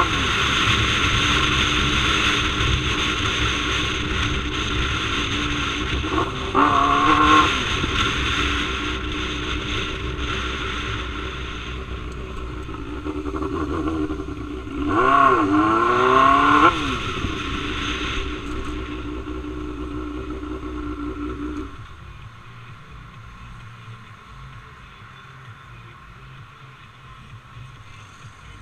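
Motorcycle engine running under way, with two bursts of rising revs, about seven and fifteen seconds in. About two-thirds of the way through, the engine note drops away to a much quieter low rumble.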